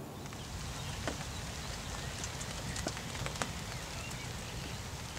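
Steady rain falling: an even hiss with a few scattered sharp ticks of drops striking.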